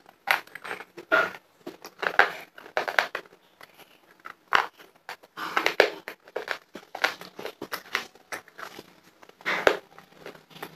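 Close-up chewing of a mouthful of homemade white chalk (khadiya), with irregular crunching and crumbling several times a second, right against the microphone.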